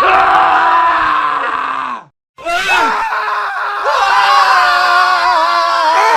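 Men screaming: one long scream whose pitch sags and cuts off about two seconds in, then after a brief silence another long scream starts and carries on.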